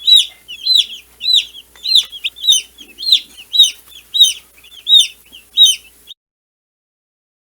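Young meat-bird chicks peeping loudly and over and over, high arching calls about twice a second. The sound cuts off suddenly about six seconds in.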